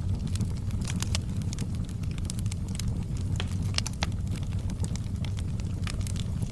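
Wood fire burning in a fireplace, with frequent sharp crackles and pops from the logs over a steady low rumble.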